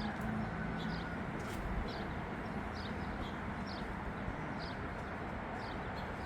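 A small bird chirping, one short high chirp about once a second, over a steady background hiss.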